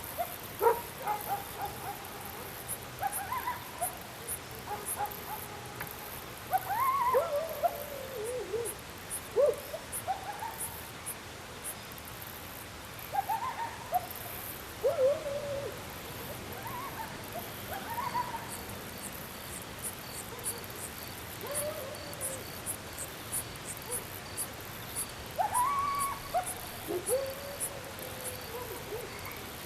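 Repeated short animal calls that rise and then fall in pitch, a few seconds apart, over steady insect chirping, with a pulsed high chirp joining about halfway through.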